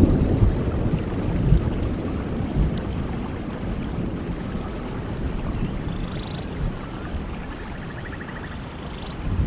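Steady rain with a low rumble of thunder that fades over the first few seconds. A few faint, short, high chirps come through near the end.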